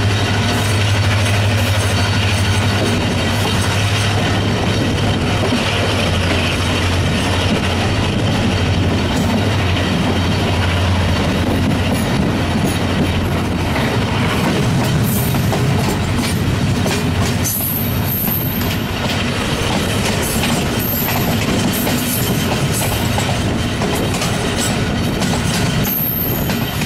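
Passenger train coach running at speed, heard close to its wheels through an open window: loud, steady wheel-on-rail noise with a low hum that weakens about halfway through.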